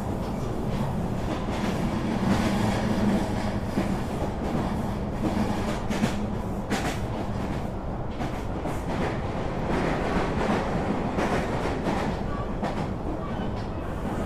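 Passenger train running along the track, heard from inside the carriage: a steady rumble and low hum, with a few soft, irregular clacks of the wheels over the rails.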